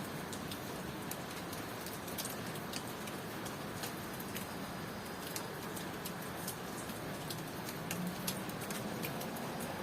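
Steady rain falling as an even hiss, with scattered sharp drips ticking irregularly on hard surfaces.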